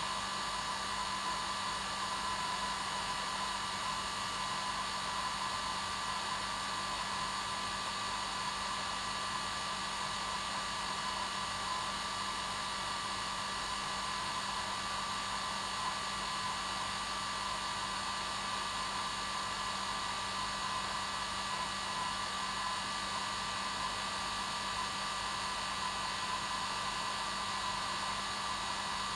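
Hair dryer running steadily on its normal setting: an even, unchanging blowing noise with a steady whine.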